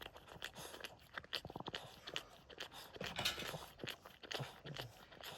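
Boston terrier mother licking and mouthing her newborn puppy, a run of irregular wet licking and chewing smacks.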